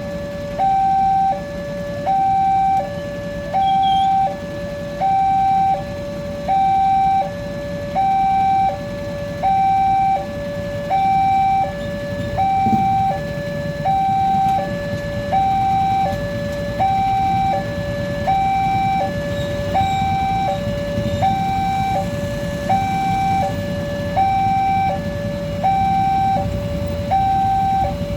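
Railway level crossing warning alarm sounding, an electronic two-tone signal alternating high and low about once a second, which means a train is approaching and the barrier is down. A low rumble of traffic runs underneath.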